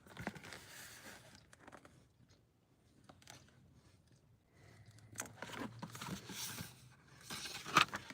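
Faint paper rustling and crinkling in short bursts, with a quiet gap in the middle: pages of a book being handled and turned.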